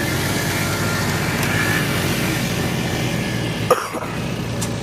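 A vehicle engine idling steadily, with one short sharp sound about three and a half seconds in.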